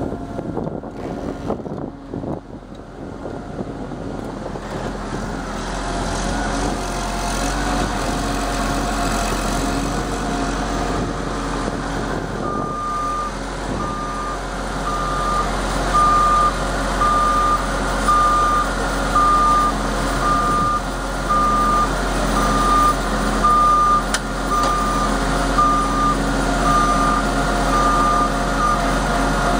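Landrich harvester machinery running steadily as its rear service-area door opens. About halfway through, a warning beeper starts sounding roughly once a second.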